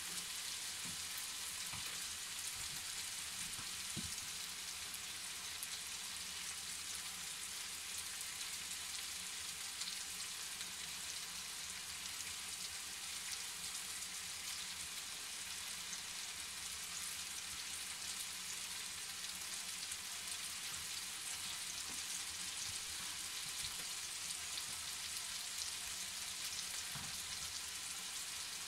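Chicken pieces frying in a pan, a steady crackling sizzle.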